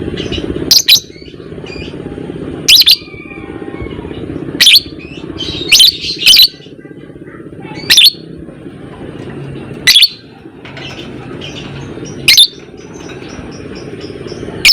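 Lovebird giving short, loud, shrill single calls about every two seconds, twice in quick succession midway, over a steady low background noise.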